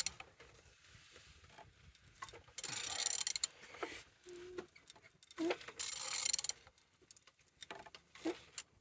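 Used car engine being turned over by hand, giving two bursts of mechanical clicking and whirring with single clicks between. The engine turns freely: a sign it is not seized.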